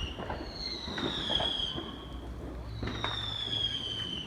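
A high whistling tone that slides down in pitch, repeating about three times, over faint scattered pops of distant fireworks and a low rumble.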